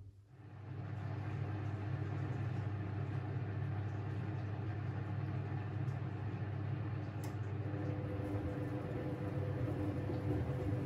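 Siemens Siwamat 6143 front-loading washing machine running a boil wash: a steady motor hum with a noisy wash sound as the drum turns. The sound drops out briefly at the very start and comes back within a second, and a higher motor tone joins near the end.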